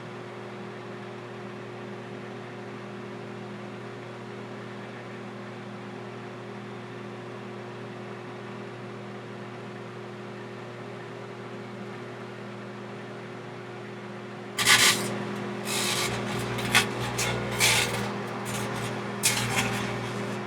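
Microwave oven running with a steady hum while heating hookah coals. About fifteen seconds in, loud irregular rasping and crackling noises start and come in several bursts while the oven keeps running.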